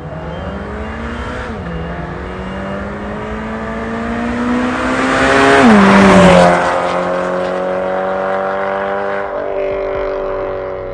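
Toyota 86's 2.0-litre flat-four boxer engine through an MS-R valved cat-back exhaust, accelerating under load. The note climbs and drops sharply at two automatic upshifts, about a second and a half in and again near six seconds, where it is loudest. It then runs on at a steadier, slowly falling pitch.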